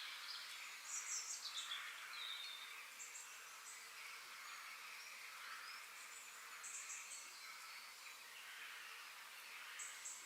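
Faint forest ambience: a steady high hiss with small birds chirping over it in short high bursts several times, loudest about a second in.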